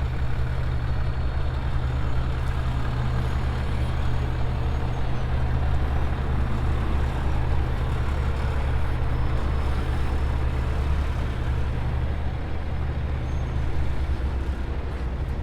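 A heavy truck's engine running steadily at an even speed, its sound mostly low and deep, with no change in pitch or load.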